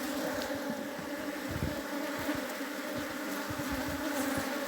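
Honey bees from an opened hive buzzing steadily in the air around the beekeeper, a defensive colony. A few faint low knocks sound under the hum.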